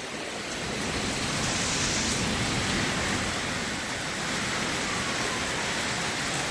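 Heavy rain pouring steadily during a thunderstorm, a constant hiss of water falling and splashing.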